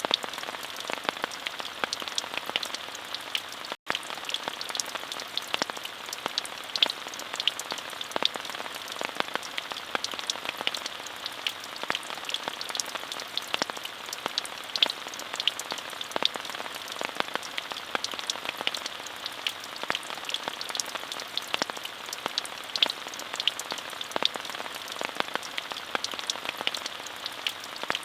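Steady rain falling: an even hiss scattered with many sharp ticks of single drops hitting surfaces. The sound cuts out for an instant about four seconds in.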